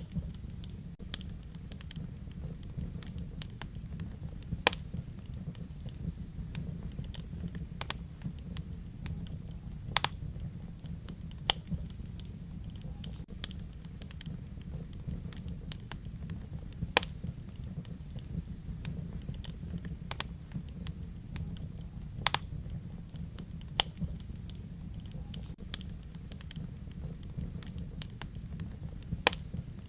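Wood fire burning in a fireplace: frequent small crackles with a handful of sharper, louder pops at irregular intervals over a steady low rumble of the flames.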